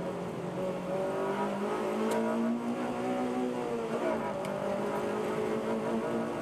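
Car engine heard from inside the cabin under load on a circuit lap, its pitch climbing steadily, dipping and recovering briefly about four seconds in, then climbing again, over road noise.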